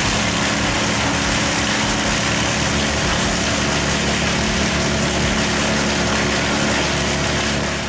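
Bandit Model 19XP wood chipper running steadily: a constant engine drone under a dense hiss, dropping away near the end.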